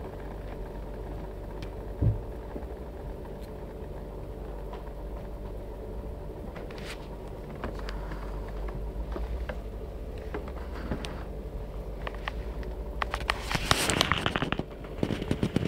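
Vitek ceramic electric kettle heating water: a steady low rumble that grows a little louder from about halfway, with a single knock early on and a run of crackling clicks near the end.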